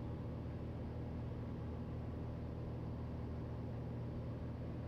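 Steady drone of a Cessna 182L Skylane's six-cylinder O-470 engine and propeller in flight, a low hum of several steady tones that does not change.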